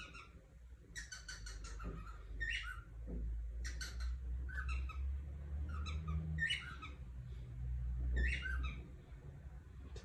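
Cockatiel calling: short, high chirping notes with quick rising and falling pitch, repeated about once a second, over a low steady rumble.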